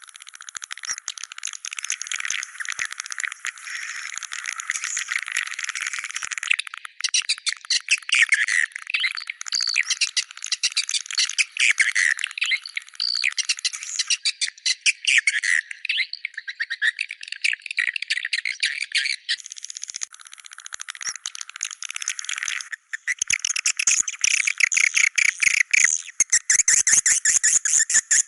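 A dense colony of swiftlets chattering: rapid high-pitched clicks and twittering chirps from many birds at once, in a 'Goa China' swiftlet call recording of the kind played to draw swiftlets to nesting houses. The mix of calls shifts several times, for example about 7, 14 and 20 seconds in.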